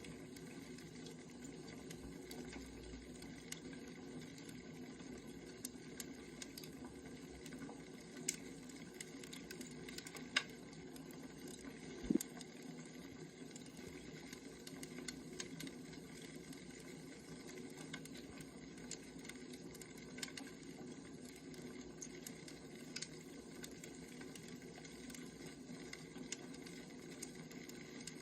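Firewood crackling as it burns: a faint, steady hiss with scattered small pops, and a few sharper cracks about a third of the way in.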